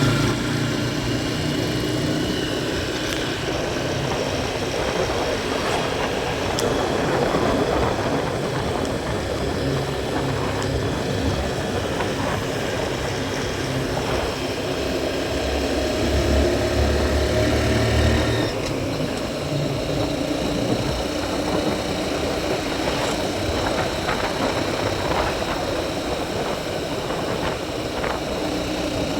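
Motorbike engine running while riding, over a steady rushing noise. A deeper low rumble swells for about two seconds just past the middle.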